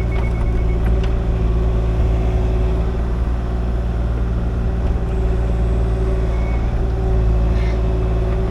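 Kubota KX-040 mini excavator's diesel engine running steadily, with a steady higher hum over the low drone.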